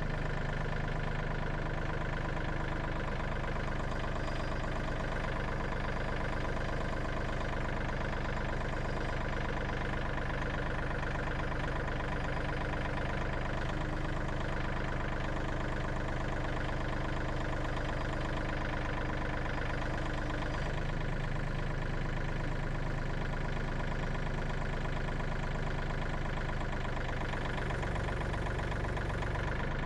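An engine running steadily at an even speed, a constant hum with a fixed set of tones; one of its mid-pitched tones drops away about two-thirds of the way through.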